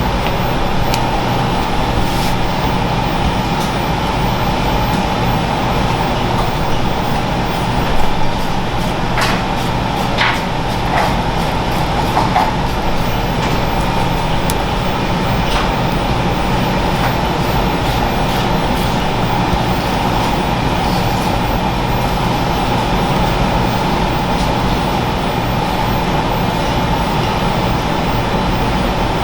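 Steady rushing, machine-like background noise with a low hum, and a few light clicks about a third of the way in.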